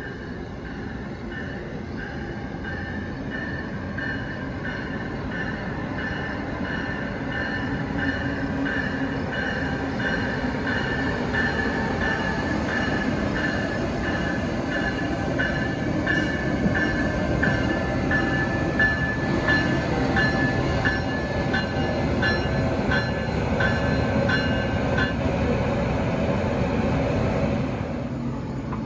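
Amtrak train hauled by an ACS-64 electric locomotive pulling into the station, its rumble growing steadily louder as it nears. A bell rings about twice a second and stops a few seconds before the end.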